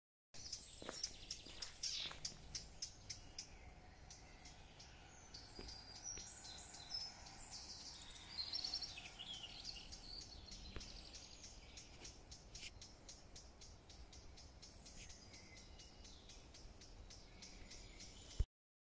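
Small birds chirping and twittering faintly over a steady low rumble. The sound cuts off suddenly with a click near the end.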